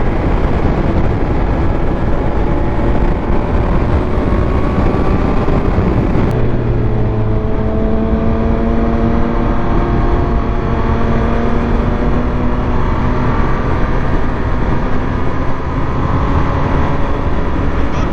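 Triumph Speed Triple 1200 RS's inline three-cylinder engine running while riding, its pitch rising and falling gently, over a heavy rush of wind and road noise.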